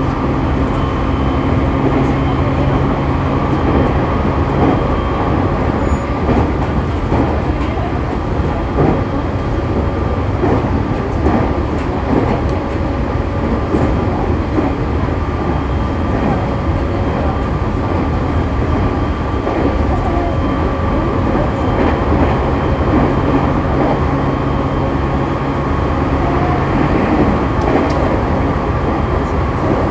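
Running sound inside an E501-series electric train's motor car at speed: steady rolling and wheel noise with light rail-joint clicks. A steady motor hum fades out a few seconds in and returns near the end.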